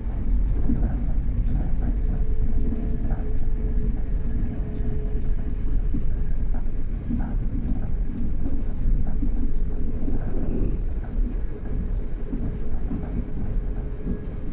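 Inside a passenger train running at speed: a steady low rumble of the wheels on the rails, with a faint steady hum and occasional light knocks.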